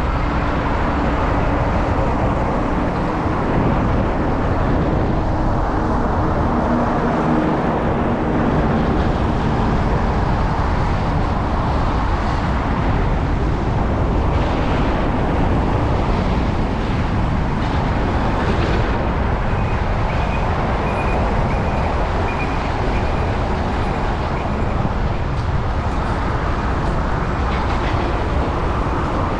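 Steady wind and road noise from riding a bicycle with a GoPro on city streets, with passing motor traffic. A faint steady hum sits under it in the first third, and a thin high tone comes in past the middle.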